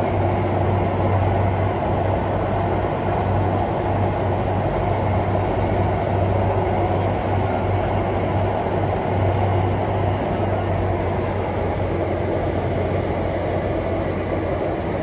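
Singapore MRT train running, heard from inside the carriage: a steady rumble of wheels and motors with a constant low hum.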